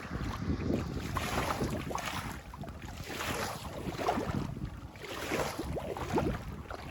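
Floodwater rushing, splashing and gurgling as it drains through a cleared grate, in uneven surges.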